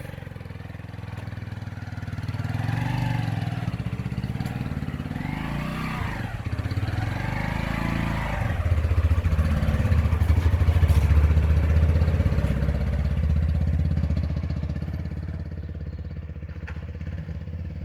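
Motorcycle engine pulling away, its pitch rising and falling several times as it revs through the gears. It is loudest about ten seconds in, then fades as it rides off.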